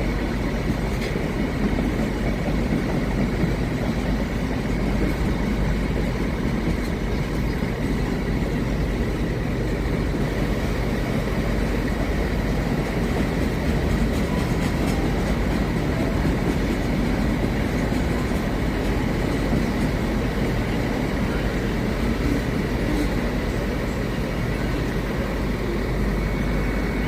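Train running by on the railway: a steady heavy rumble with a thin high whine held throughout.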